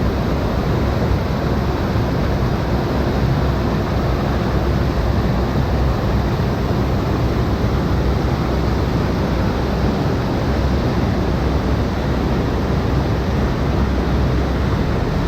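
Waterfall rushing: a steady, even wash of falling and cascading water.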